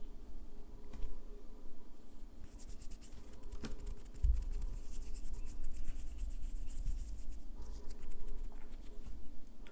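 Nail file rasping in quick back-and-forth strokes across a fingernail, a dense scratchy sound that picks up a couple of seconds in.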